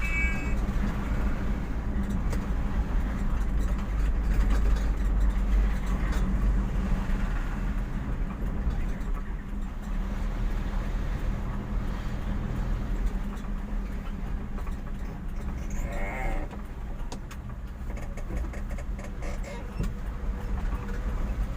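A vehicle's engine running with road noise as a steady low drone, heard from inside the cab. About sixteen seconds in there is a brief higher-pitched sound.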